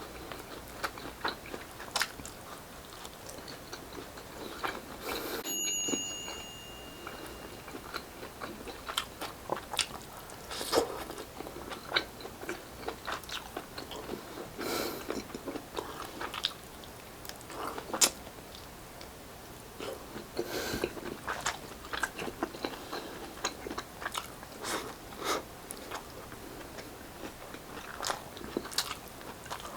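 Close-up eating sounds: biting into and chewing grilled street-food barbecue, with wet mouth smacks and short crunches scattered irregularly.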